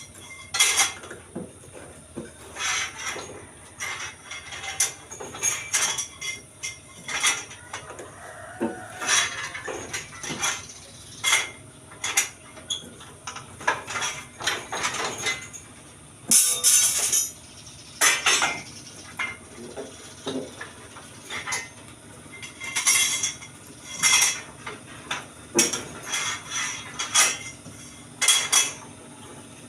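Irregular metallic clinks and clanks of steel reinforcing bars being handled and worked.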